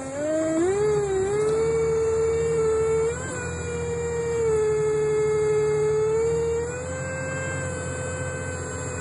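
A bus making a continuous howling whine, one tone with several overtones that dips, glides and steps in pitch, over the low rumble of the bus running. The whine gets a little quieter about three seconds in and again near seven seconds.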